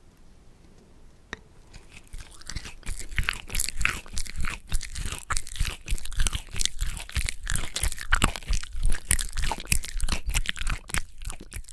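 Crunchy food being bitten and chewed into an ASMR microphone, a dense run of crisp crunches that starts about two seconds in.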